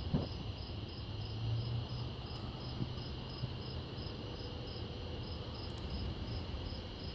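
Crickets chirping in a steady, even pulse of about three chirps a second, over a low rumble that swells briefly about a second in.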